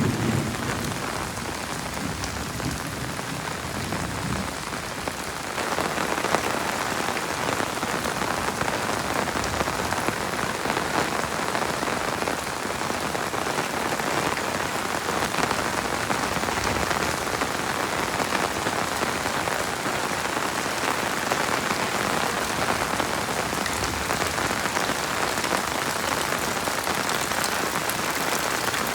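Heavy rain falling steadily, growing louder and fuller about five or six seconds in.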